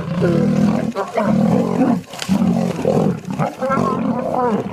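A big cat roaring over and over, each roar lasting about a second with short breaks between.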